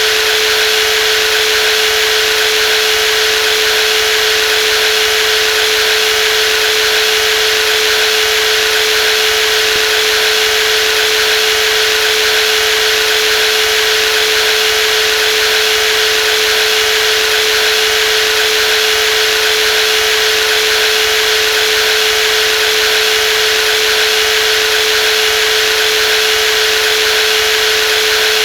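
Brushless jigsaw running steadily at constant speed: an unbroken mid-pitched whine over a dense mechanical hiss.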